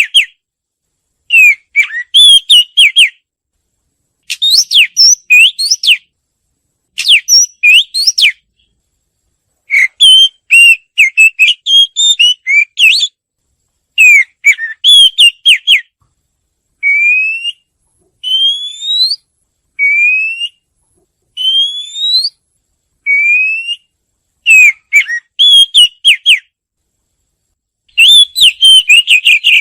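Oriental magpie-robin singing: short phrases of quick, varied whistled notes with brief pauses between them. In the middle of the song comes a run of about five single rising whistles.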